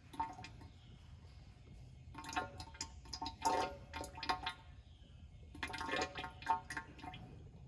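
Engine oil draining from a Ram TRX's oil cooler into a catch container, splashing and gurgling in two spells of a couple of seconds each. It is a slow drain from a cooler holding little oil.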